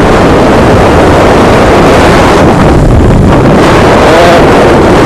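Heavy wind buffeting on a helmet-mounted microphone at riding speed, loud and near clipping, with the Yamaha WR125X's 125cc single-cylinder engine running underneath.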